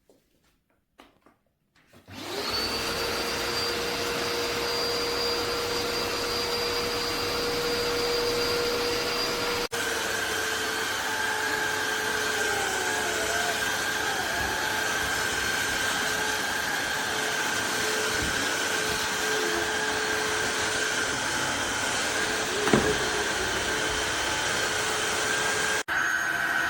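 Tineco iFloor 5 Steam wet-dry floor vacuum starting about two seconds in, its motor spinning up with a short rising whine and then running loud and steady. The sound cuts out for an instant about ten seconds in and again near the end, each time coming back with a changed hum, with one sharp knock a few seconds before the end.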